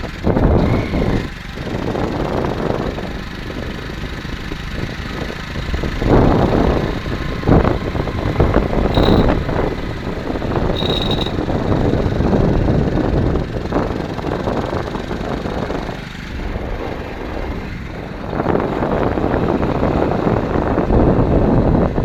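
Vehicle under way: a loud, steady engine-and-road rumble with wind noise on the microphone, rising and falling in level. Two short high beeps sound near the middle.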